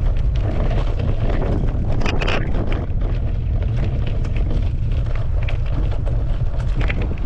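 Wind buffeting the microphone as a bicycle is ridden, a steady low rumble with small clicks and rattles over it and a brief louder rush about two seconds in.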